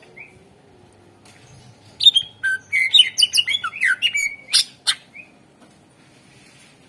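Greater green leafbird (cucak ijo) singing: a single short note, then about three seconds of rapid, varied chirps and whistled notes, with two sharp clicks near the end of the phrase and a last short note.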